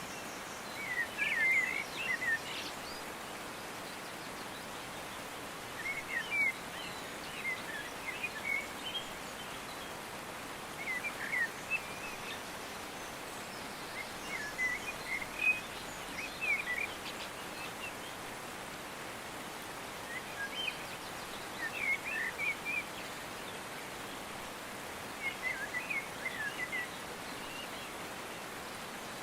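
A songbird singing short chirpy phrases, one about every four to five seconds, over a steady outdoor hiss.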